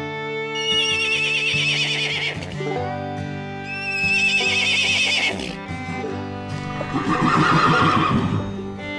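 Zebra calls: two high, wavering whinny-like calls, then a lower, pulsed braying call near the end. Steady string-band music runs underneath.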